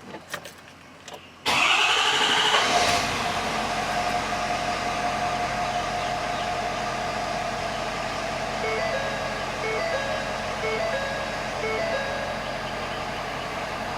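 Ford 6.7-litre Power Stroke V8 turbodiesel of a 2016 F-550 being started: a short crank with a rising starter whine about a second and a half in, catching after about a second, then settling into a steady idle. A few short two-tone beeps sound later on.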